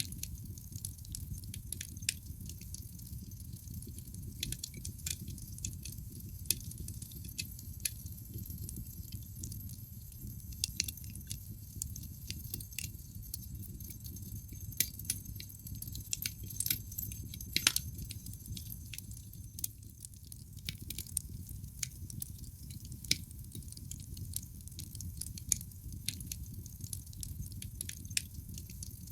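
Wood fire crackling in a fireplace: irregular sharp pops and cracks from the burning logs over a low steady rumble of the flames, with one louder crack a little past halfway.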